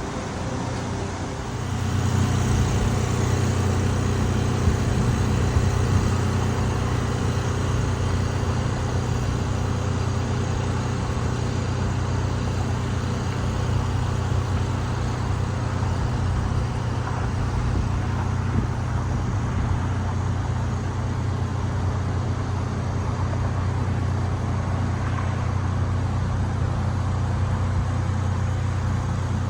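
Heavy rain, an even steady rush over a strong low hum, which grows louder about a second and a half in and then holds steady.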